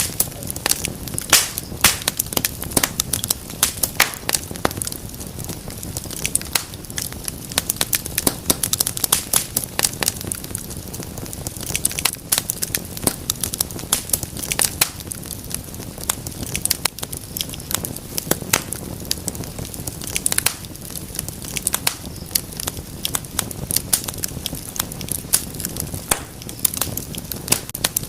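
Wood fire crackling steadily, with many irregular sharp pops and snaps over a low rumble of flame.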